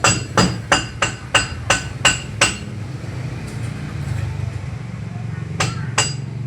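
Hammer blows on metal, about three a second, each with a short ringing tone. They stop for about three seconds, then resume near the end, over a steady low hum.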